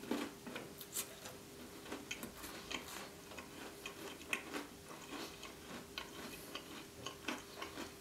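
A mouthful of custard-drizzled gingerbread being chewed with the lips closed: soft, irregular clicks, several a second, all the way through.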